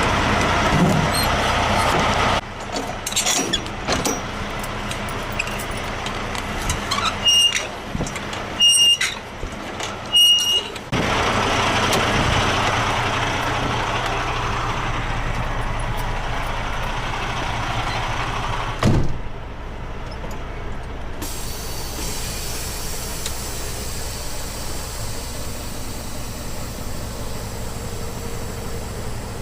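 Semi-truck running steadily, with clicks and three short high beeps about a second and a half apart. After the beeps comes a long hiss of air that ends sharply with a thump, then the steady running continues.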